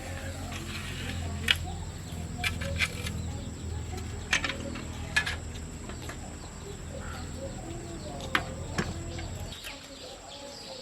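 A low machine hum runs steadily and stops shortly before the end, with half a dozen sharp knocks scattered through it. Birds chirp in the background.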